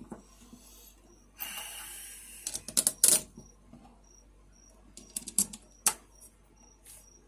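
Hands handling small hard parts: a run of sharp clicks and knocks, with a brief rustle about a second and a half in and another cluster of clicks near the end.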